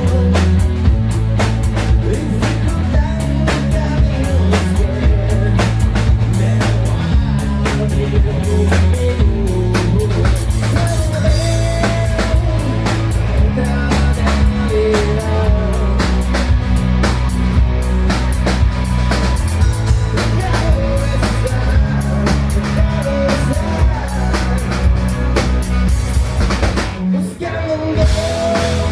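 Melodic hard rock band playing live: drum kit with bass drum, bass and guitars, with a singer over them. The band breaks off briefly near the end, then comes back in.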